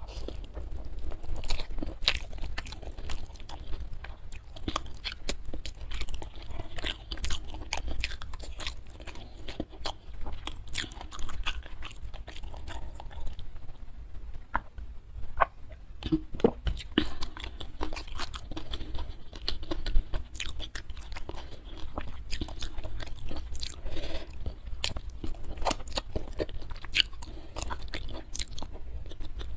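Close-miked chewing and crunching: a person eating spicy chicken feet with rice by hand, with wet mouth and finger sounds, and a short lull about halfway through while drinking.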